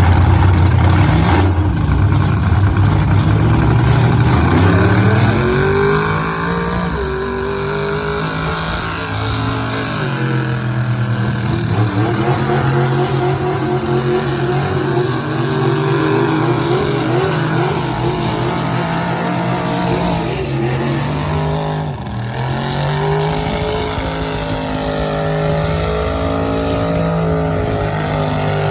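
A truck engine revving hard under load. It runs low and heavy at first, climbs in pitch about five seconds in, holds high with a wavering pitch, drops suddenly near the end, then climbs again.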